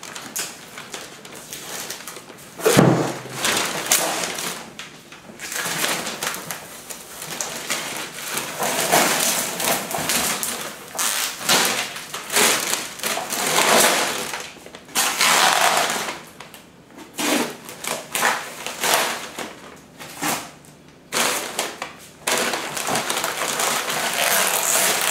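Packaging being pulled off and unwrapped by hand: continual irregular rustling, with a single louder knock about three seconds in.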